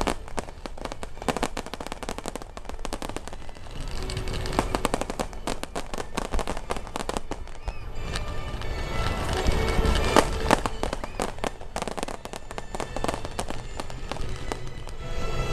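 Fireworks going off in a rapid, dense run of bangs and crackles, with music and voices underneath.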